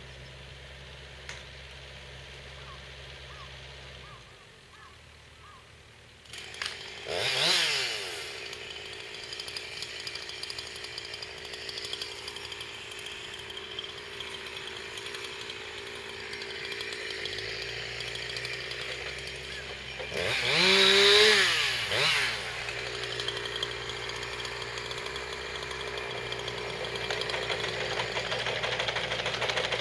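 Chainsaw revving up hard twice, about 7 seconds in and again about 21 seconds in, running more steadily between the revs. A low steady machine hum sits underneath at the start and again from about 17 seconds on.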